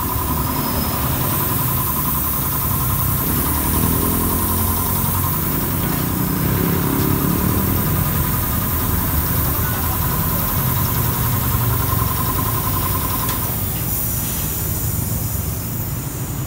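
A motor vehicle's engine running steadily at idle, with a steady high whine that stops about 13 seconds in.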